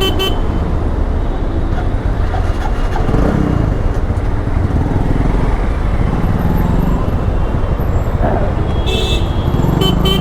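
Motorcycle riding in city traffic: a steady engine and road rumble, with two short horn toots near the end.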